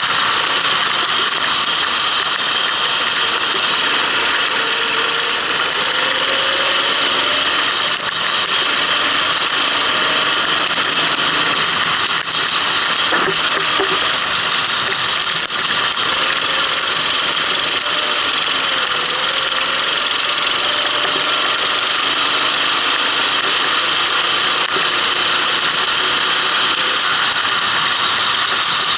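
Kart engine running on a wet track, heard from on board, its pitch slowly rising and falling over a steady loud hiss.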